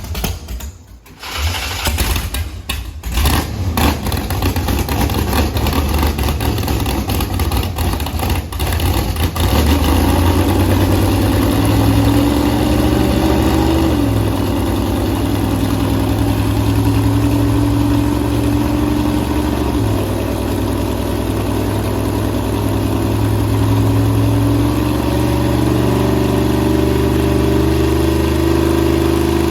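A 10.3-liter big-block V8 running hard on a chassis dyno during a power pull. After a few choppy seconds it settles into a loud, steady run, its pitch climbing slowly, dropping back twice and climbing again.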